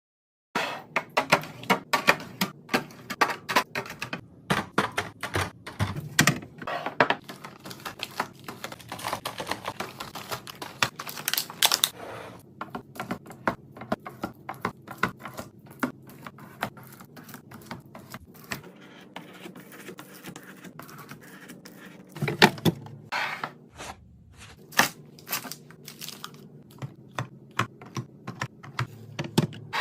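Rapid, irregular clicking, tapping and clattering of containers and food packages being handled and set down while restocking a fridge, with a few louder knocks.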